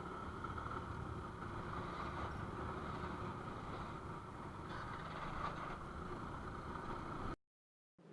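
A vehicle engine running steadily at a low level, with a constant hum and noise, cutting off abruptly near the end.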